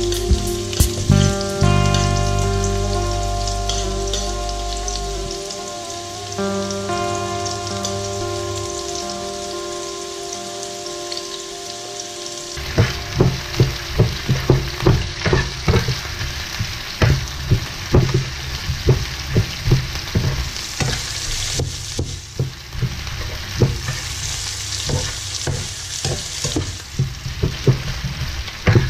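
Julienned ginger and chopped garlic sizzling in hot oil in a pan. For the first twelve seconds or so a few held musical notes ring over the sizzle; after that a slotted spatula stirs and scrapes, clacking against the pan many times.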